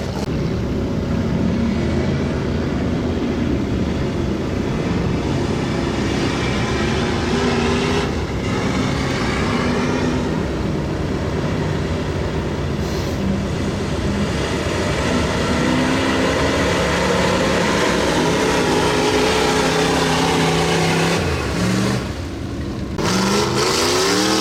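Off-road mud truck's engine running hard under load, its pitch rising and falling as the throttle changes. Near the end it drops off briefly, then revs up again.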